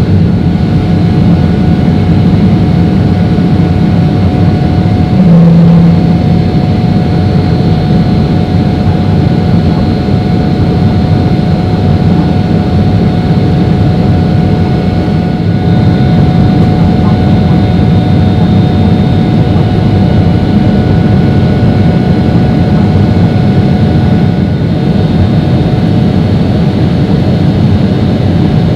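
Steady noise of a Boeing 777-300ER's GE90 jet engines and airflow heard inside the cabin, a deep even rush with a few faint steady whining tones above it. About five seconds in there is a short, louder low hum.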